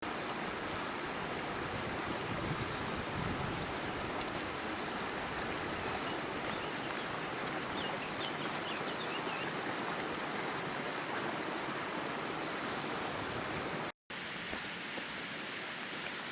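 Small hillside stream running: a steady rush of flowing water.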